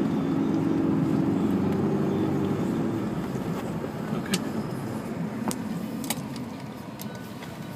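Honda S2000's four-cylinder engine running with a steady note that fades after about three seconds. A few sharp clicks come near the end.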